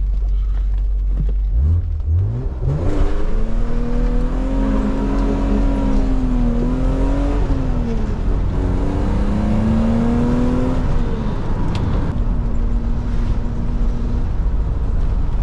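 BMW Z3 M roadster's 3.2-litre straight-six, heard from the cabin, accelerating hard from about two seconds in. The revs rise, fall back at each gear change and rise again, then settle near the end, over steady tyre and road noise.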